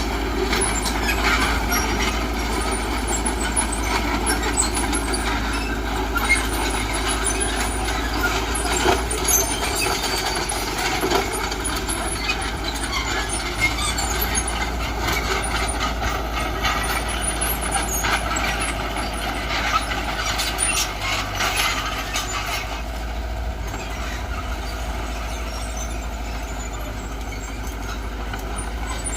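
Heavy construction machinery with a diesel engine running steadily, with frequent small clanks and rattles that thin out and get a little quieter in the last several seconds.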